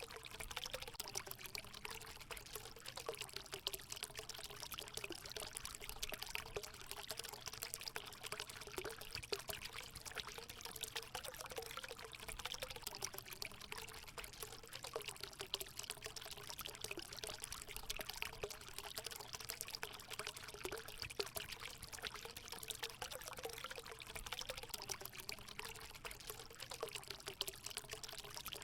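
Water running and pouring steadily into a hot spring pool, a continuous trickling splash with a faint wavering gurgle.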